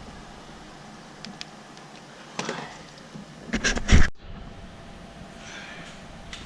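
Hand-work noises from a car headlight install: a few light clicks, then a louder cluster of knocks and clatter about four seconds in that cuts off suddenly.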